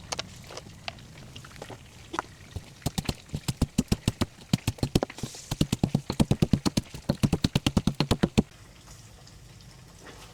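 A rapid run of sharp knocks, about five a second, coming in bursts for several seconds before stopping suddenly.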